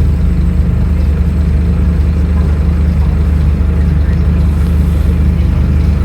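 Scania N310UA bus's 9-litre five-cylinder diesel engine running steadily, a constant low drone with no rise or fall in pitch.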